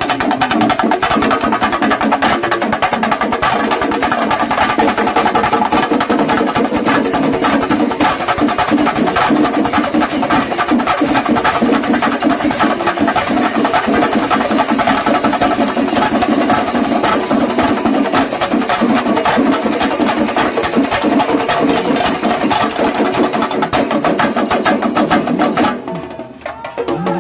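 Kerala temple percussion ensemble (melam) of chenda drums playing a fast, dense, continuous rhythm. The sound dips briefly near the end.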